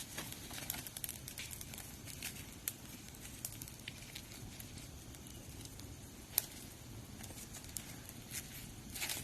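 Charcoal fire crackling, with scattered sharp pops and one louder snap about six seconds in.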